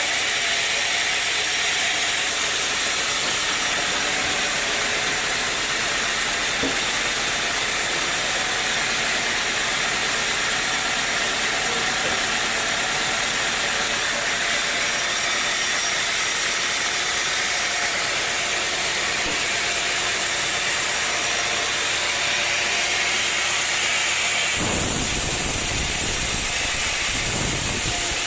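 Sawmill machinery running with a steady hissing mechanical noise. Near the end a low rumble joins in.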